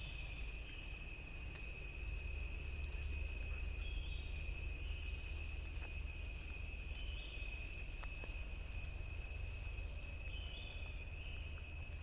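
Tropical forest insect chorus: a steady, shrill, high-pitched drone of crickets and cicadas, with a few short, faint bird chirps about four, seven and ten seconds in.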